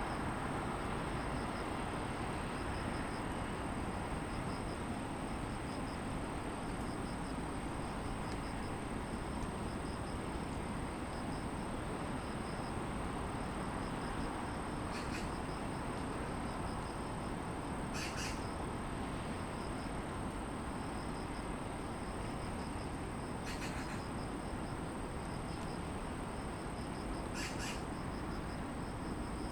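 Steady distant city traffic hum with grass insects chirring in a steady pulsing rhythm, and four short bird calls in the second half.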